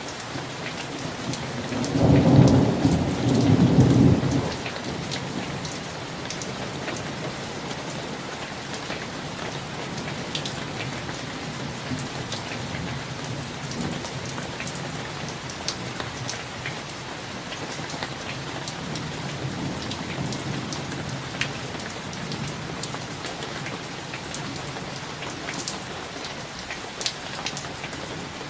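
Steady rain with a summer thunderstorm, with scattered sharp drop taps. A loud, low rumble of thunder peaks about two to four seconds in, and a fainter rumble follows around twenty seconds in.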